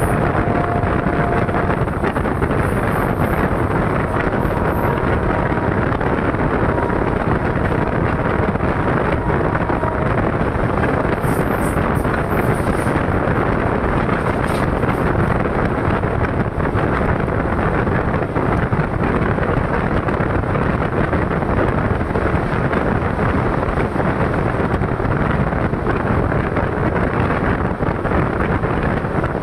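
Steady rush of wind and wheel-on-rail noise at an open door of a passenger train running through a station at speed, with wind buffeting the microphone.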